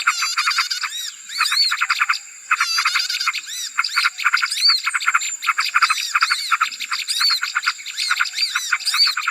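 Bird-lure recording of many small birds calling at once: a dense, noisy chatter of rapid chirps and trills, with repeated arched whistled notes, over a steady thin high tone.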